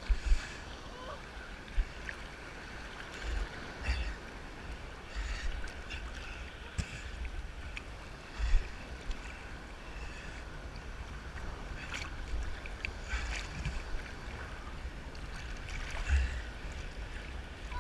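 Sea surf sloshing and splashing close around the swimmers, with a low rumble coming and going and several short, sharp splashes.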